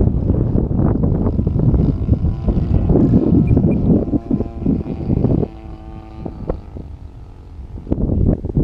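Wind buffeting the microphone, with the DLE 35 two-stroke gas engine of a radio-controlled aerobatic plane droning steadily in flight; the engine is clearest in a lull in the wind about two-thirds of the way through.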